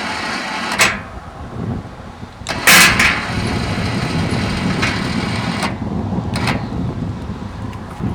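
Several sharp metal clanks from a truck-bed motorcycle lift's steel slide and pin hardware, the loudest about three seconds in. They sound over a steady engine-like rumble.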